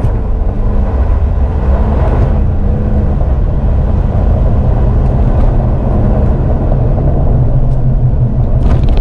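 Nissan Frontier pickup accelerating hard on a dirt road. A loud, steady low rumble of engine and tyres runs throughout, and the engine note drops about three seconds in.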